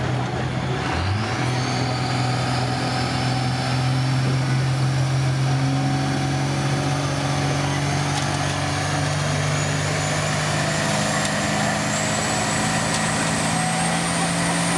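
Pulling vehicle's engine under full load as it drags the weight sled down the dirt track. Its pitch jumps about a second in, then climbs slowly and steadily.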